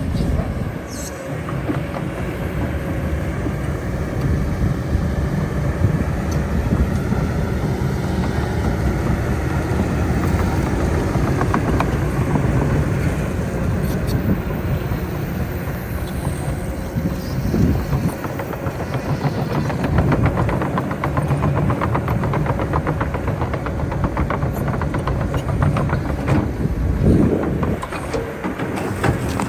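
Heavy construction machinery running steadily, with a low engine rumble and a spell of rapid metallic clatter in the middle.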